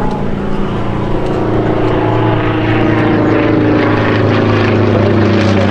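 Sukhoi Su-26MX aerobatic plane's Vedeneyev M-14P nine-cylinder radial engine and propeller running at high power in a steady drone, growing slightly louder in the second half.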